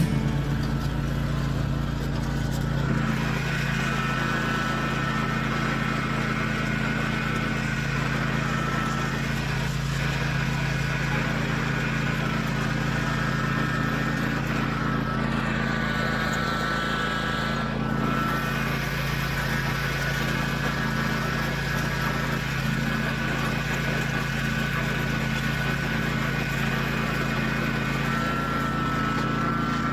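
Lawn tractor engine running steadily while towing a pull-behind dethatcher, with a steady high whine over the engine note.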